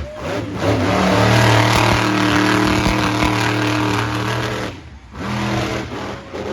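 Monster truck engine running hard at high revs, held steady for a few seconds, then dropping off about five seconds in and revving up again briefly.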